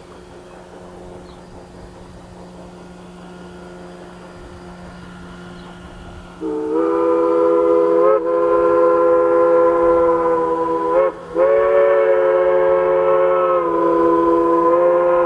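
PRR three-chime steam whistle blown in two long blasts. It sounds a steady chord; the first blast starts sharply about six seconds in, and a short break near eleven seconds splits it from the second.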